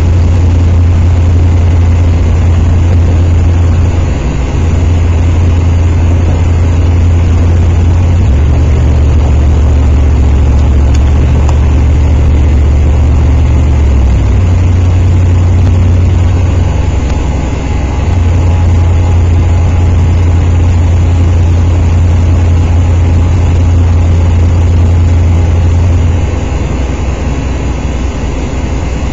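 Police car's engine idling: a loud, steady low rumble whose pitch steps up and down a few times.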